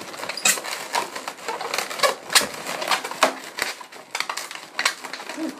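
Inflated latex modelling balloons (260s) squeaking and creaking in irregular sharp bursts as they are twisted into pinch twists and pressed together.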